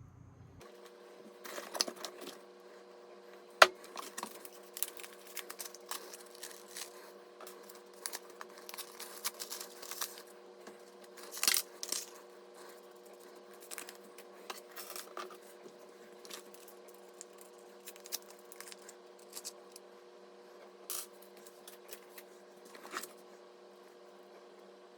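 Irregular clicks, taps and clinks of small hard parts being handled, in scattered bursts with a sharp knock about three and a half seconds in and a cluster about eleven seconds in. A steady faint hum runs underneath.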